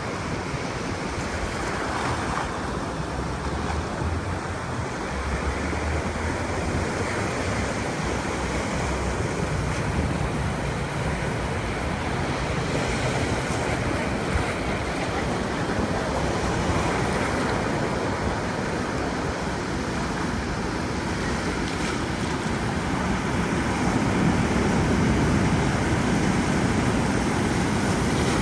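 Ocean surf: waves breaking and washing onto a beach in a continuous rush, swelling slowly in loudness, with some wind.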